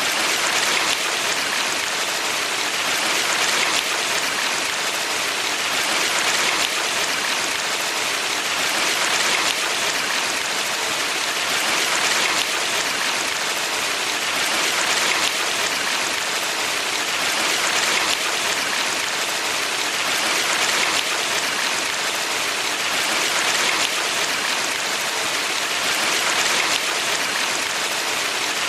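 Rushing water of a valley stream: a steady hiss of flowing water that swells gently about every three seconds.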